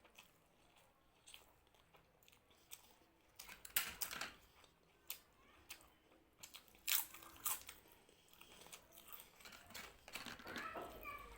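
A person eating close to the microphone: chewing with wet mouth clicks and a few sharp crunchy bites, loudest about four and seven seconds in.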